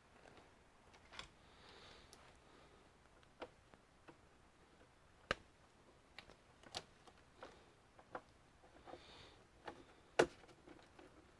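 Scattered light clicks and taps of hands handling and working on computer parts, irregular and faint, with the sharpest click about ten seconds in.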